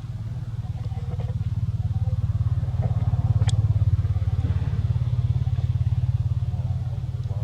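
A small engine running with a low, rapid, even pulse, growing louder toward the middle and then easing off, with a single sharp click about three and a half seconds in.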